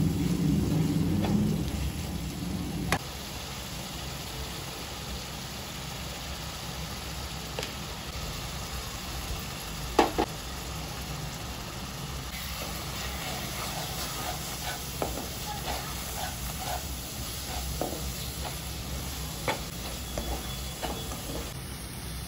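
Onion masala sizzling in a frying pan while being stirred, with a spatula now and then scraping and tapping against the pan, one sharp tap about ten seconds in. A louder low rumble for the first three seconds cuts off suddenly.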